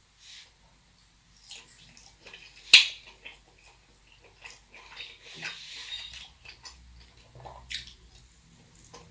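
Close-miked eating sounds from a large burrito: wet chewing and mouth smacks in short scattered clicks. The loudest is one sharp snap a little under three seconds in, and a denser wet patch follows a couple of seconds later.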